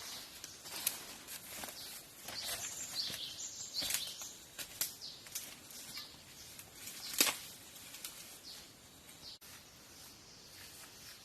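Irregular rustling and crackling, like dry leaves and twigs being stepped on or handled on a forest floor, with one sharp snap about seven seconds in. It grows quieter after about eight seconds.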